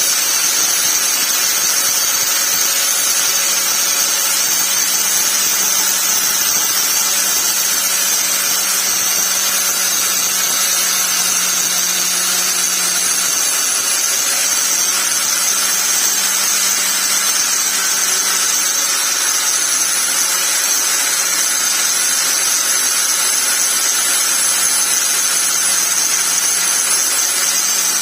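Angle grinder running steadily, with a constant motor whine and a high hiss.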